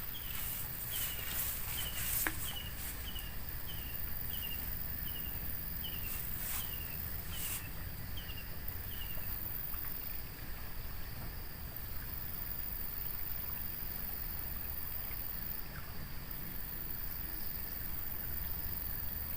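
Outdoor riverside ambience: an animal gives a short, high, falling chirp about every half second for the first nine seconds or so, over a steady high insect drone and a low rumble. There are a few faint clicks.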